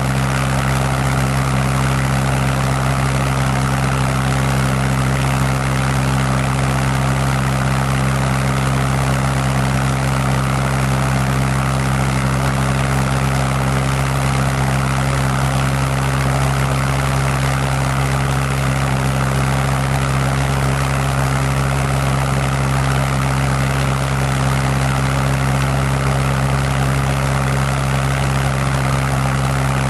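Pulse jet engine running steadily, a loud continuous buzz at one fixed low pitch with a hissing rush over it.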